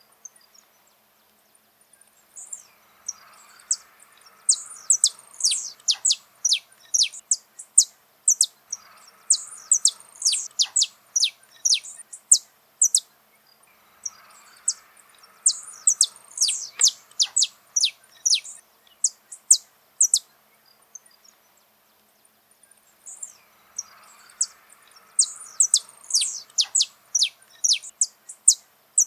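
Saffron finch singing: bouts of rapid, sharp, high chirps that sweep downward, each bout lasting several seconds with short pauses between.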